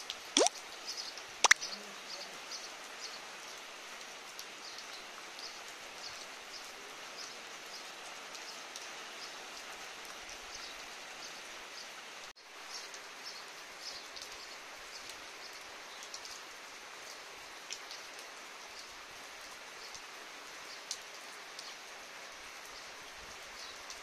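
Light rain falling steadily, with a few sharp loud drips near the start. A short high chirp repeats about twice a second throughout.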